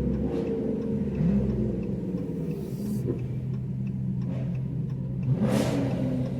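Car engine idling with a steady low drone, blipped up briefly about a second in, with a short hissing burst near the end.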